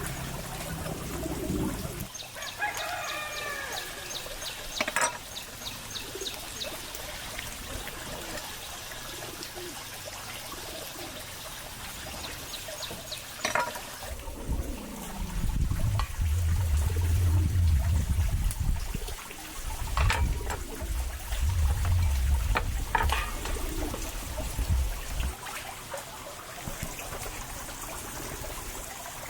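Water running and trickling, with occasional sharp knocks and a heavy low rumble through the middle.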